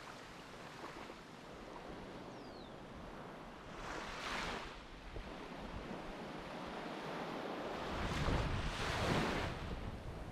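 Sea waves washing on a beach, swelling twice, the second time longer and heavier, with wind rumbling on the microphone.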